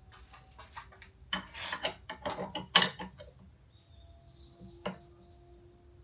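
Metal parts and tools being handled: a run of clinks and knocks, the sharpest near the middle, then a single knock a couple of seconds later.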